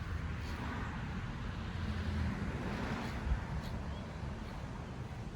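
Axial SCX24 micro RC crawler's small electric motor and geared drivetrain running as it crawls over the track, with a single knock a little past three seconds in.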